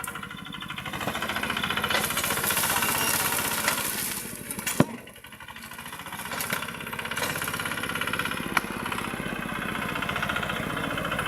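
Tractor engine running with a fast, even pounding beat, getting louder about two seconds in as it works, with a sharp crack a little before the middle.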